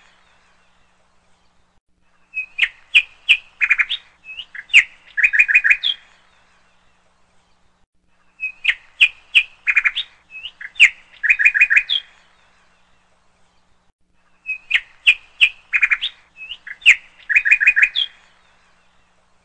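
A recording of bird chirps on a loop: a phrase of quick chirps and trills about three and a half seconds long, repeating the same way about every six seconds with short pauses between.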